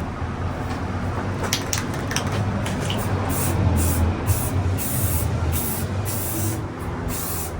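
Gray primer sprayed onto sheet metal in a series of short hissing bursts, lightly fogged on over a red primer coat, with a steady low hum underneath.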